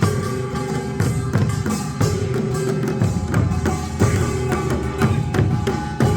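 Korean folk music played live, led by drums and other percussion beating a steady rhythm.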